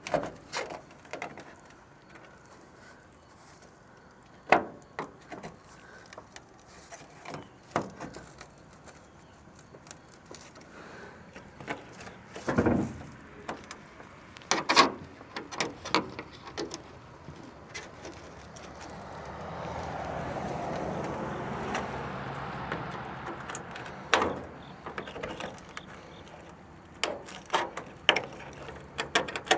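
Scattered clicks, taps and knocks of hand work prying the body trim and its metal clips off a 1974 Chevy Nova. A steady rushing noise swells and fades in the middle.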